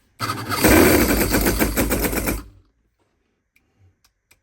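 Cison flathead V8 model engine firing in a rapid, loud run of pulses for about two seconds, then cutting off abruptly, followed by a few faint clicks.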